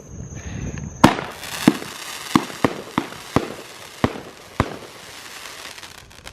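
Consumer fireworks going off: a rising rush, then a loud bang about a second in. About seven more sharp bangs follow, roughly half a second apart, over a crackling hiss that fades out.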